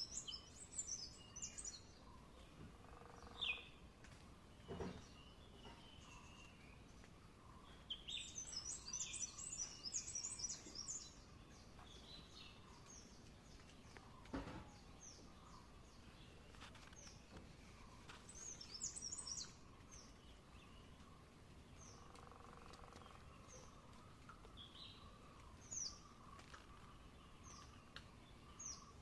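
Small birds chirping in quick high-pitched clusters, three times, with scattered single short calls in between over faint background noise.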